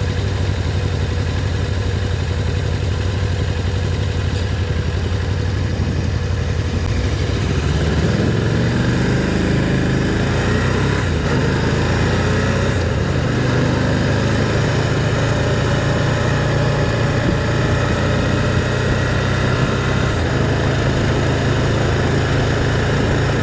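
Motorcycle engine idling steadily. About eight seconds in it revs up and accelerates, then runs steadily at a higher engine speed.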